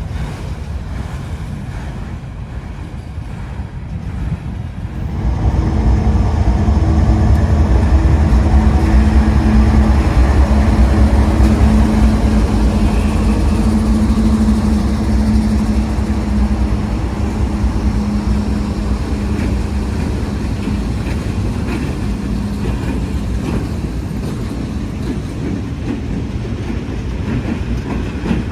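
Freight train passing close by. About five seconds in the sound rises sharply into a heavy low rumble with steady droning tones, then slowly eases as the train rolls on.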